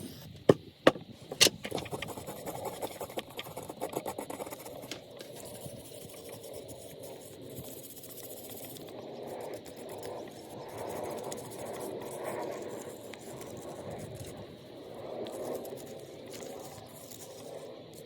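Metal tools and small carburetor parts handled on a workbench: three sharp clicks in the first second and a half, then irregular scraping and rattling.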